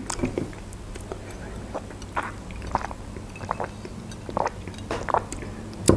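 Close-miked mouth sounds of someone eating grilled chicken: scattered soft wet clicks and smacks from chewing, with a sip through a drinking straw in the second half.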